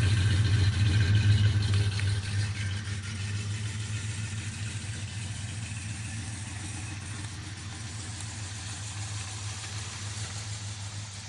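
A Jeep Grand Wagoneer's carbureted AMC 360 V8 runs just after a cold start, still struggling a little. It is louder for the first couple of seconds, then its speed drops and it settles to a steadier, quieter idle.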